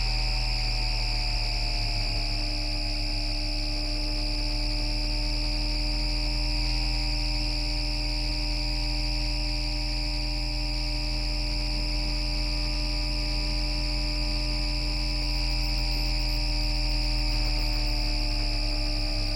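Electrical switching noise of the Bombardier MITRAC IGBT VVVF traction inverter on an FGV Class 4200 Flexity Outlook tram, picked up through a radio: a steady buzzing hum with a cluster of whistling tones that dip slightly, rise and hold, then slide down near the end as the motor speed changes.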